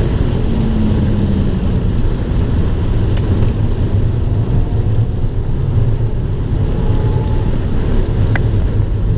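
Abarth 595 Turismo's 1.4-litre turbocharged four-cylinder engine running steadily on track, mixed with road and wind noise as a constant low drone.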